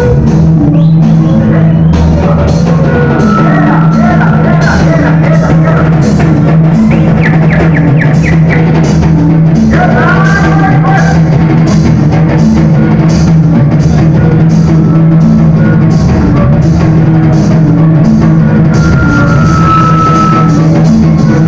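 Loud band music with a drum kit and guitar, the beat running steadily throughout.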